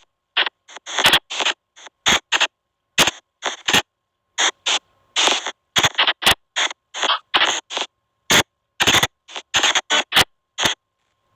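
SP White Noise Box spirit-box app on a phone, sweeping out a rapid, irregular string of short bursts of static and chopped sound fragments, each cut off sharply with silence between. A faint steady tone runs underneath.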